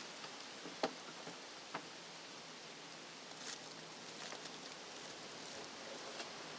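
Steady low hiss with a few faint clicks and taps, two of them in the first two seconds.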